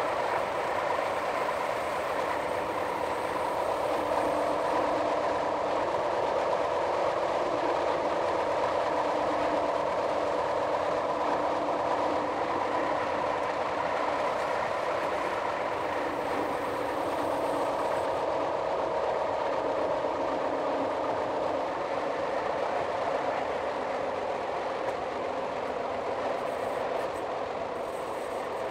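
Metre-gauge electric passenger train running along the line: a steady rolling rumble of wheels on rail, with a few faint held tones from the running gear that fade in and out.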